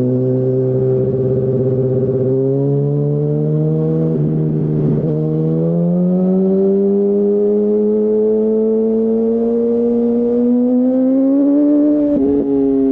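2008 Yamaha R1's inline-four engine through a Termignoni full exhaust, pulling under throttle with a steadily climbing note. Brief dips from upshifts come about four to five seconds in and again near the end.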